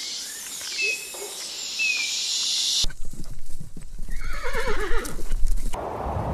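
Horse whinnying: one long quavering neigh that falls in pitch, lasting about a second and a half and starting about four seconds in, over low wind rumble and light clicks. Before it, two short high chirps over a hiss.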